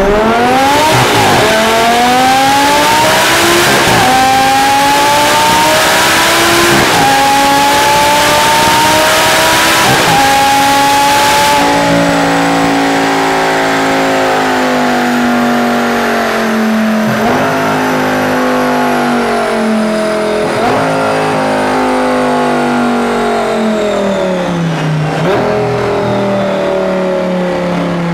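Twin-turbo Audi R8 V10 at full throttle on a chassis dyno. The revs climb hard through the gears, dropping sharply at each upshift. About twelve seconds in the loud rush stops, and the revs come down in steps, jumping up briefly at each downshift.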